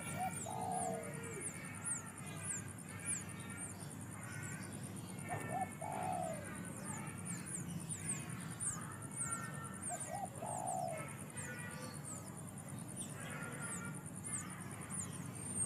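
Wild birds calling: a low cooing call comes three times, about five seconds apart, over quick repeated chirping and thin high twittering.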